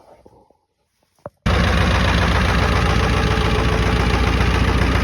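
1997 Ford F-350's 7.3 L Power Stroke V8 turbo diesel on a cold start after sitting about two months: a short click, then about a second and a half in the engine comes in abruptly and loud and keeps running steadily.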